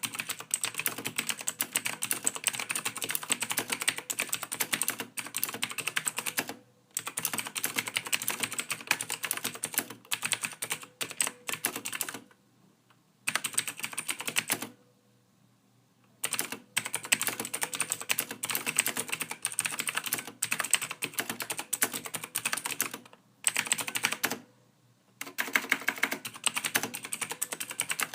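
Computer keyboard typing: a fast, continuous run of soft keystrokes, broken by a few short pauses of about a second around the middle and once near the end.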